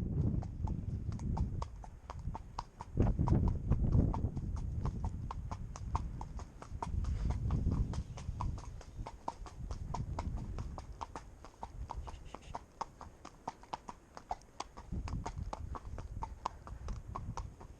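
A Connemara pony's hooves clip-clopping in a steady, even rhythm, with gusts of wind rumbling on the microphone.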